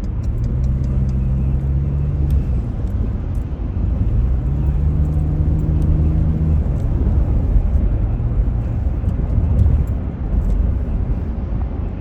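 Road traffic noise: a steady low rumble of vehicles, with a passing engine's hum swelling twice, about half a second in and again about four seconds in. The sound cuts off abruptly at the end.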